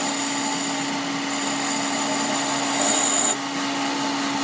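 A workshop power tool running steadily, with a steady hum and a high whine over a noisy grinding-like hiss; the high whine stops about three seconds in.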